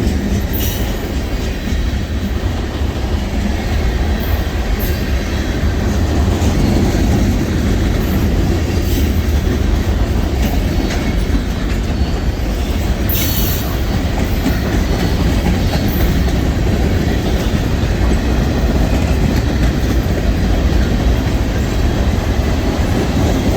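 Loaded freight train rolling past close by: a steady heavy rumble of wheels on rail with clacks over the rail joints, and brief high wheel screeches about a second in and again about thirteen seconds in.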